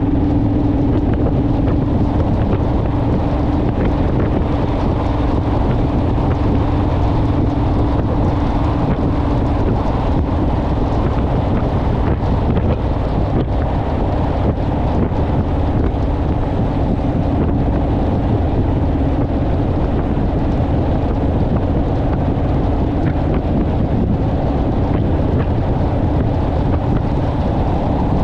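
Honda Rebel parallel-twin motorcycle engine running at a steady cruising speed, a constant drone with one steady tone in it, with wind rushing over the microphone.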